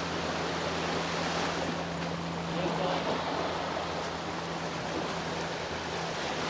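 Sea waves washing steadily on the shore, with a steady low hum of a boat engine running underneath.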